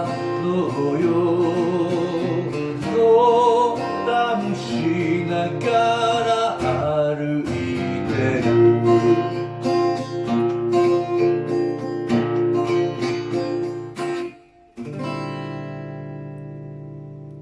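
Acoustic guitar playing the closing instrumental of the song, with a final chord about fifteen seconds in that rings out and slowly fades.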